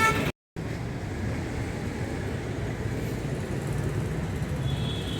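Steady low rumble of vehicle traffic, after a horn that breaks off at an abrupt cut near the start; a faint high tone comes in near the end.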